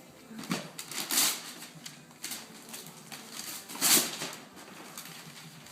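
A few short rustling, crackling bursts of packaging being handled, the loudest about four seconds in.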